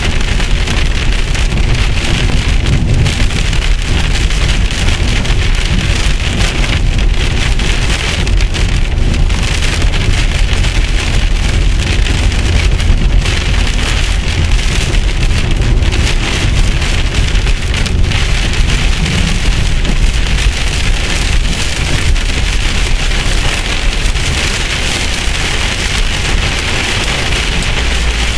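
Heavy rain pelting the windshield and roof of a moving car, heard from inside the cabin, over a steady low road rumble.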